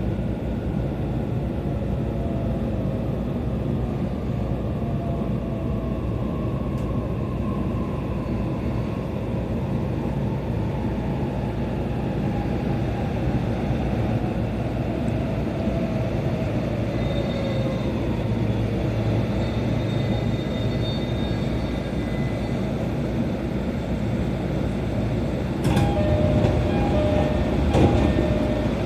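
E531-series electric train running, heard from inside the car: a steady rumble of wheels on rail under faint traction-motor whine that glides downward in pitch. A few sharp clunks come near the end.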